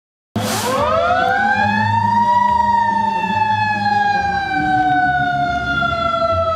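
Fire truck siren winding up to a high wail over about two seconds, then slowly sliding down in pitch, with a low engine rumble underneath.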